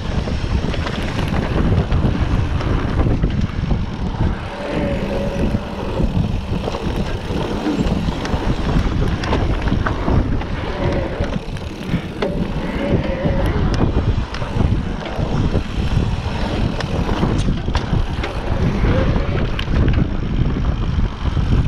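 Riding a mountain bike on a forest trail: wind rushing over the microphone, with the bike knocking and rattling over rough ground.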